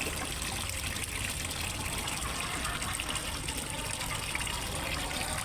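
Water steadily splashing and trickling as it falls into a fish pond, a continuous even rush.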